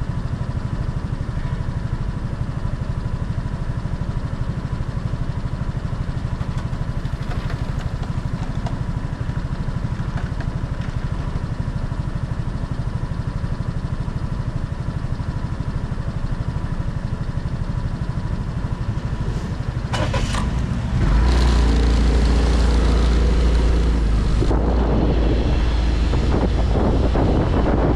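Motorcycle engine idling steadily. Near the end it pulls away and speeds up, the engine note rising, with wind rumbling on the microphone.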